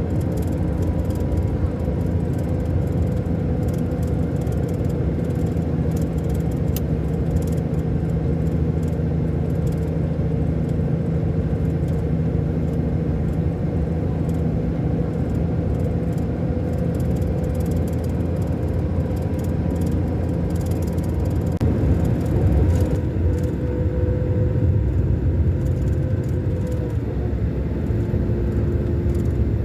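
Scania K400 Euro 5 diesel engine of a double-decker coach running steadily under way, a constant engine drone over road rumble. About two-thirds of the way through, the low rumble grows somewhat louder and rougher.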